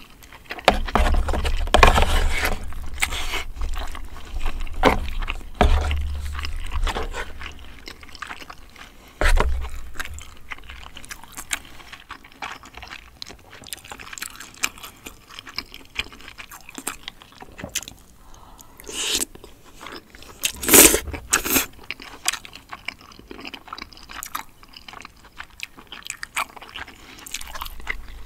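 A person eating spicy braised chicken close to the microphone: chewing, biting and wet mouth sounds, with many short sharp clicks and a louder burst of them about two-thirds of the way through.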